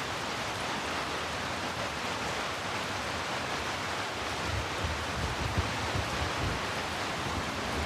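Steady, even hiss of heavy rainfall, with low rumbles swelling and fading from about halfway through.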